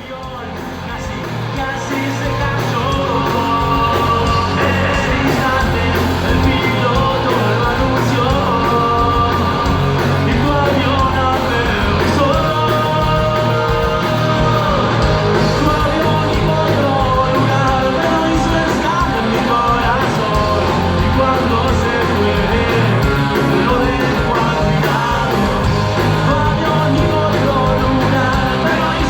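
Rock band playing live, with singing over the instruments; the sound fades in over the first few seconds.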